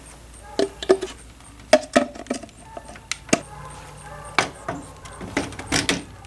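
Irregular clicks and clinks of small hard objects being handled, about a dozen sharp strokes, some with a brief metallic ring.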